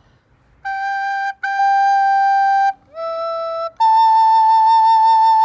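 Soprano recorder playing the notes G, G, E and A. The second G is longer than the first, the E is short and lower, and the A is higher and held to the end.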